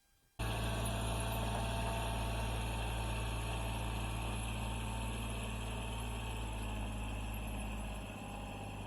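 An engine or motor running steadily with a low hum. It starts abruptly just after the beginning and eases slightly near the end.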